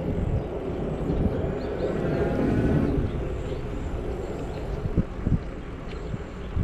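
Wind and road rumble from an e-bike riding along, a steady low rushing noise with a few sharp knocks from bumps about five seconds in and near the end.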